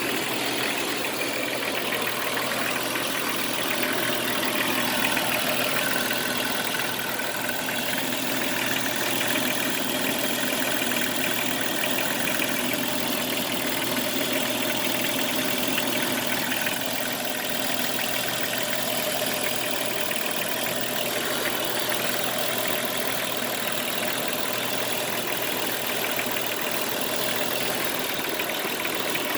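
Jeep Cherokee XJ engine idling steadily with a rattle that the owner is unsure is a rattle or a knock, along with a hiss and a metal scraping noise that the owner places around the power steering pump.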